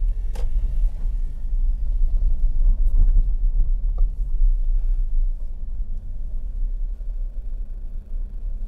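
Low rumble of a Toyota Agya's 1.0-litre three-cylinder engine running at low revs, heard inside the cabin, with a few light knocks in the first half.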